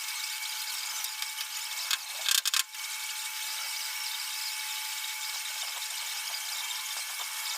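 A high-speed power tool, most likely air-driven, runs steadily with a high whine and a hiss. It gives a brief louder burst a little over two seconds in.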